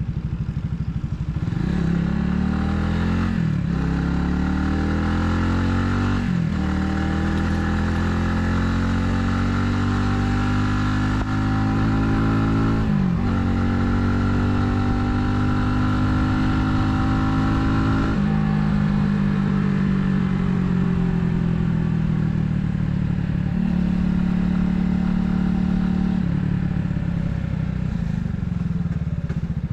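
Italika 250Z motorcycle engine accelerating up through the gears. Its pitch climbs and drops sharply at each of three upshifts in the first half. Then the throttle eases and the engine runs at a lower, steadier pitch.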